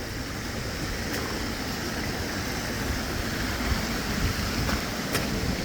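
A waterfall's water rushing steadily, with a faint click about a second in and another near the end.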